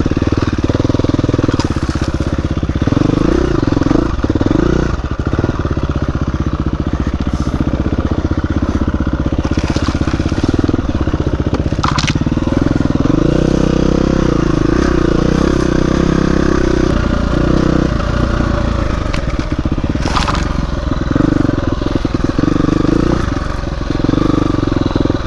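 Dirt bike engine rising and falling in revs as the bike pushes through overgrown brush, with branches and wet bushes scraping and crackling against the bike and rider. A couple of sharp cracks come partway through.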